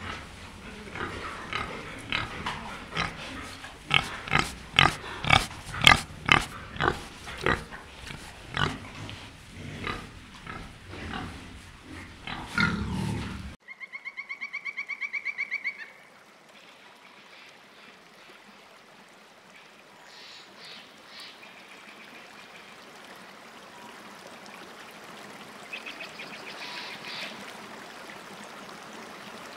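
Wild boar, adults and piglets, calling in a long run of short sharp squeals and grunts, many in a row and loud. About halfway through they cut off abruptly and a rapid pulsing buzz follows for about two seconds, then only a faint steady hiss.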